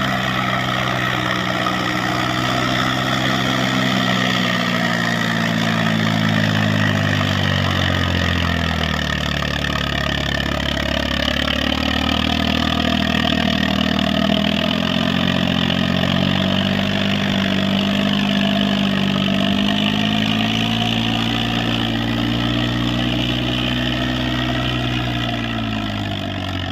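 John Deere 5042D tractor's three-cylinder diesel engine working hard under a heavy load of about 20 tons. Its speed sags and recovers several times, dropping clearly about a third of the way in and again near the end.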